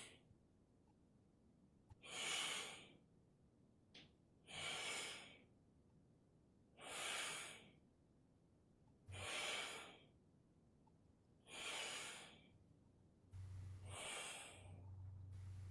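A person breathing audibly in a slow, even rhythm: six airy breaths, about two and a half seconds apart. A low hum comes in near the end.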